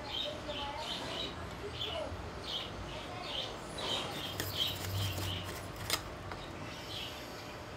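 A small bird chirping in the background: short, high chirps repeated two or three times a second, which thin out later on. A single sharp click comes about six seconds in.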